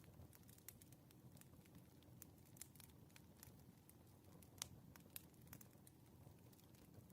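Faint crackling of a burning wood fire: irregular sharp pops and snaps over a low rumble, with one louder pop a little past the middle.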